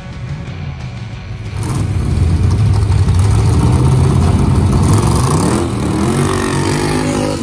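Hot-rod pickup's engine running loud at the drag-strip start line, starting about a second and a half in, then revving with a rising pitch near the end.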